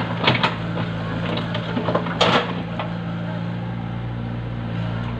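An engine running steadily with a low, even drone, with a few short sharp knocks in the first half second and a louder clatter a little over two seconds in.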